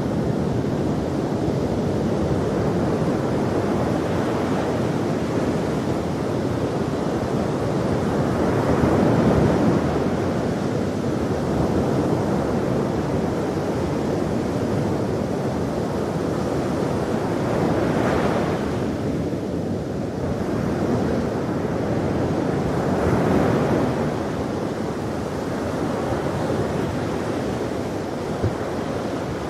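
Ocean surf with waves breaking and washing in, swelling about every few seconds over a steady roar, with some wind noise on the microphone.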